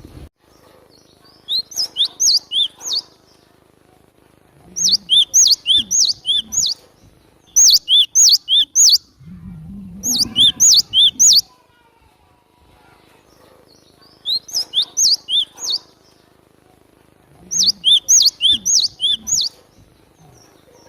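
Cinereous tit (gelatik batu) singing: six loud phrases of quick, repeated, sharp high notes, each phrase lasting one to two seconds, with pauses of one to three seconds between them.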